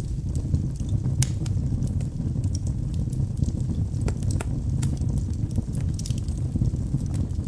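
Wood logs burning in a fireplace: a steady low rumble of flames with frequent sharp crackles and pops at irregular intervals.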